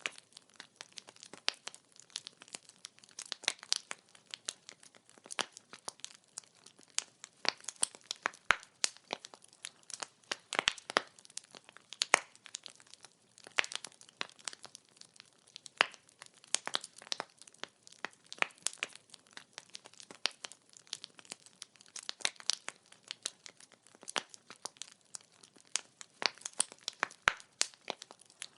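Burning firewood crackling and popping, a steady irregular stream of sharp snaps, some louder than others.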